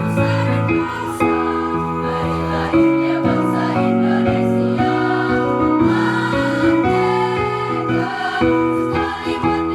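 Choral music: a student choir singing sustained chords with instrumental accompaniment.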